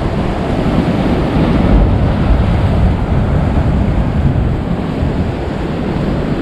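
Large ocean waves crashing and washing over a rock jetty in a continuous heavy rush, swelling about two seconds in, with wind buffeting the microphone.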